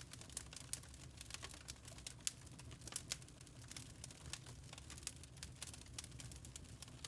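Burning charcoal crackling: a dense, irregular run of small ticks and pops, with a few sharper pops standing out, over a low steady rumble.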